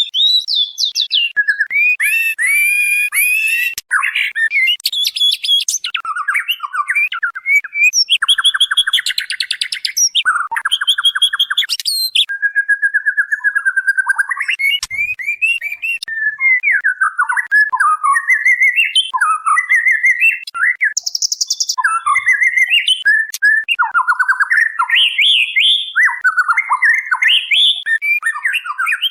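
White-rumped shama, a female calling to a male, in a continuous string of varied whistled phrases with quick rising and falling notes, broken up by harsh buzzy rattles.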